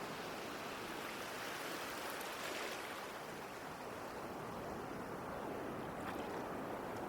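Ocean waves washing on a shore: a steady surf hiss that swells as a wave breaks about two to three seconds in, then eases back.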